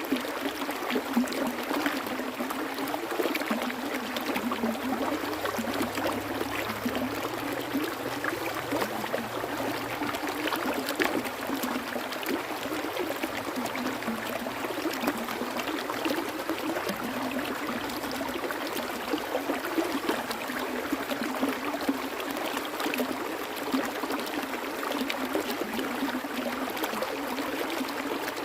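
Water flowing in a stream: a steady rush with many small splashes and trickles.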